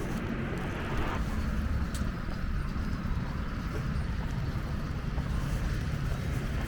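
Wind buffeting the microphone during a snowstorm: a steady low rumble with a fainter hiss above it.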